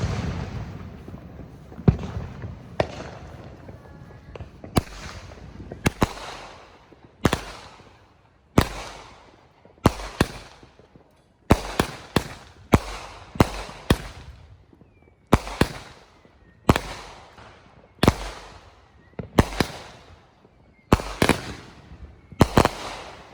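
A string of aerial firework bursts, about twenty sharp bangs roughly a second apart, each trailing off in a rolling echo. A few faint whistles rise between the bangs near the middle.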